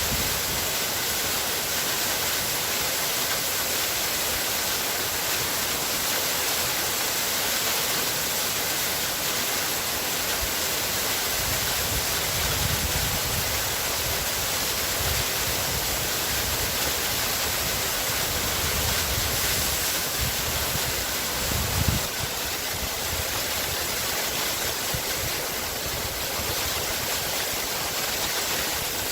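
Waterfall: a steady rush of falling water, with a low rumble swelling in and out through the middle.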